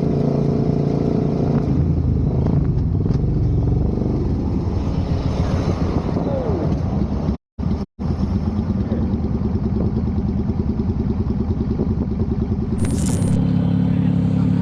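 A motorcycle engine running, its steady drone shifting in pitch now and then, broken by two brief cuts to silence about halfway through.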